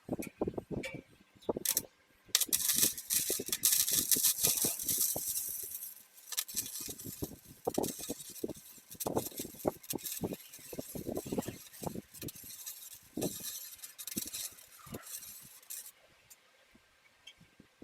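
Metalwork on a steel gravel separator: a run of irregular sharp metallic clicks and clinks, with stretches of harsh hissing crackle about two seconds in and again from about eight seconds until near the end.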